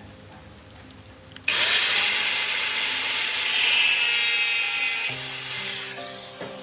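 A handheld power tool switches on about a second and a half in, spins up, and runs with a loud, hissing, high-pitched noise. It eases off in the last second or so. Background music plays underneath.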